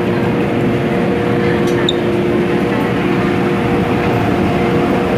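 MTR M-Train electric multiple unit running at speed between stations, heard from inside the passenger car: a steady rumble of wheels and running gear with a steady motor whine.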